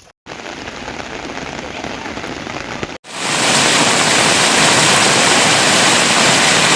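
Rain falling steadily. After a break about three seconds in, it comes back as much louder, heavy rain.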